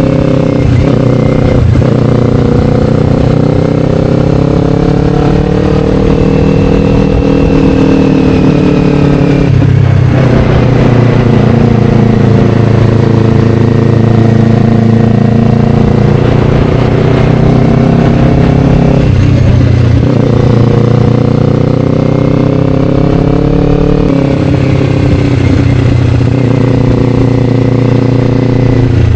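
Kawasaki Ninja 500's parallel-twin engine through an Akrapovic slip-on exhaust, running under way with the pitch rising and falling gently. The note breaks off briefly twice, about ten and nineteen seconds in, then picks up again.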